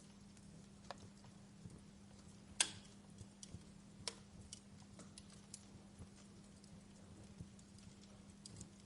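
Wood fire crackling in a fireplace: faint, irregular pops and clicks, the loudest a sharp snap about two and a half seconds in. A steady low hum runs underneath.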